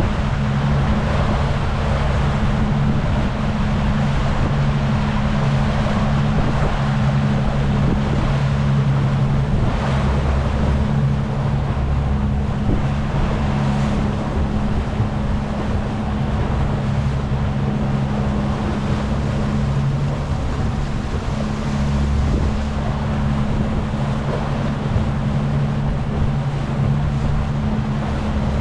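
Rigid inflatable speedboat under way, its engine running at a steady pitch over the rush of water along the hull and wind.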